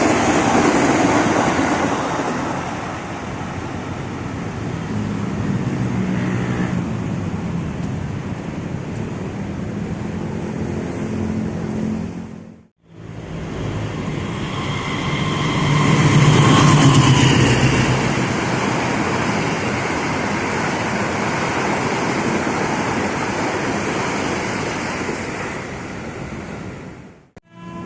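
Trains passing on the track, a steady rumble and rush of wheels on rail. The sound cuts off suddenly about 13 seconds in and resumes with another passing train, which is loudest a few seconds later.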